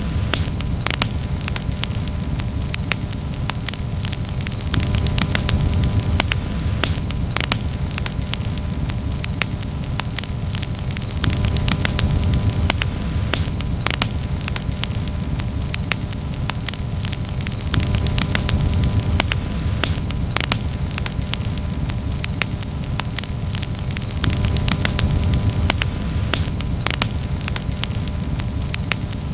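Wood campfire crackling steadily, with many irregular sharp pops and snaps over a low rumble that swells and eases every few seconds.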